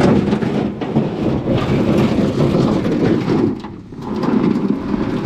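A 12-foot jon boat's hull scraping and rumbling as it is slid along the bank into the water, a loud grinding rush with a short lull about two-thirds through.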